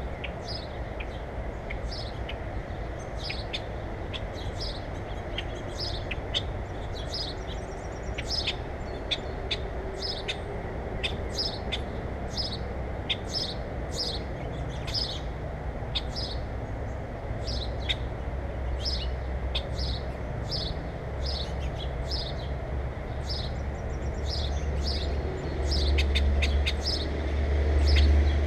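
Small birds at a feeder chirping: many short, sharp chirps, several a second, throughout. A steady low rumble lies underneath and swells louder near the end.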